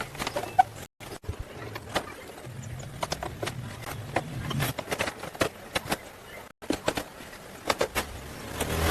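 Scattered sharp clicks and knocks over a low steady hum, broken twice by brief total dropouts.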